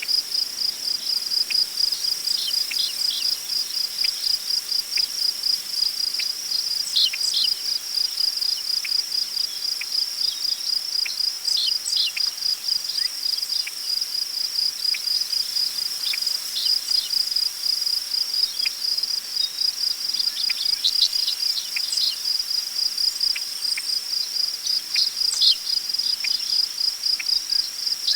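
Crickets chirping in a steady, high-pitched, rhythmic pulse, with scattered short bird calls.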